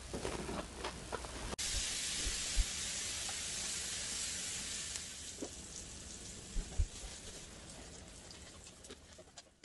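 Hot oil sizzling steadily as cut potatoes fry in a skillet, with sliced chicken gyro meat heating on a stovetop griddle. The sizzle starts abruptly about a second and a half in and slowly fades, with a few soft knocks.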